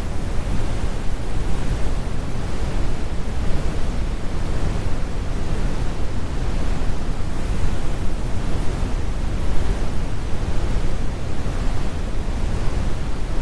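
Heavy brown noise: a steady, deep rumble of generated noise, strongest in the low end with the highs rolled off.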